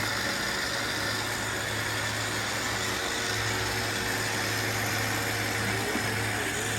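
Robot vacuum cleaners running, a steady motor and brush hum with an even whir.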